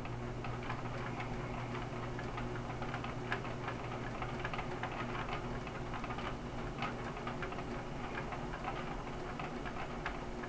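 Gehl 4400 skid steer engine idling: a steady low hum with fast, irregular ticking over it.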